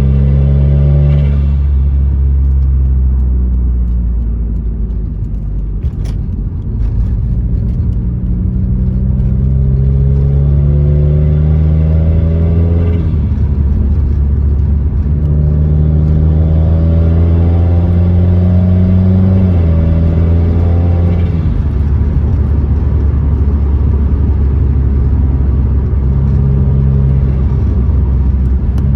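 Tuned Subaru WRX turbocharged flat-four with an aftermarket intake pulling under acceleration through its CVT. The engine note climbs steadily for several seconds, then drops sharply at each stepped ratio change, three or four times over.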